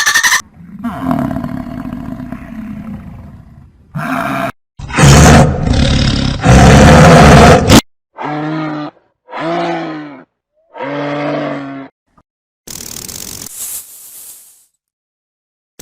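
A string of separate animal sound clips: loud roars about halfway through, then three short pitched calls in a row, then a hissing sound near the end.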